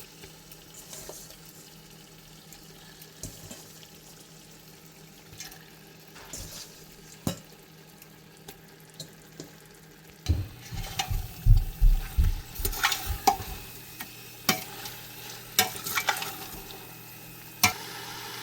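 Chicken frying in a pan of oil and masala paste, sizzling, while a spoon scrapes and knocks against the pan as it is stirred. The stirring turns busier and louder about ten seconds in, with many sharp knocks and scrapes.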